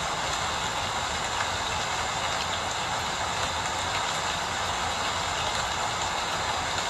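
Steady rain falling: an even, unbroken hiss with faint scattered drip ticks and a low rumble beneath.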